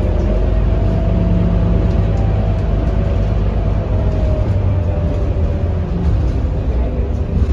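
Scania K230UB city bus's diesel engine running under way, a steady low rumble with road noise and a faint whine that fades about halfway through.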